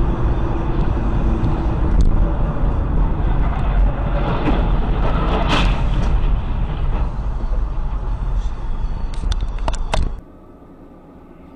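Loud, steady rumble of a moving car, heavy in the lows, with a few sharp knocks about halfway through and near the end. It cuts off suddenly about ten seconds in.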